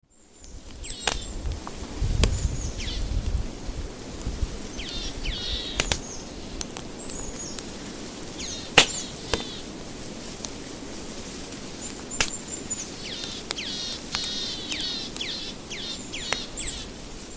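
Wood fire burning in a fireplace, crackling steadily with sharp pops, the loudest crack about nine seconds in.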